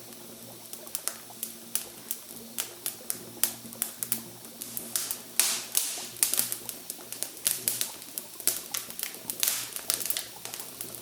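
Campfire crackling: irregular sharp pops and snaps of burning wood, growing busier and louder about halfway through.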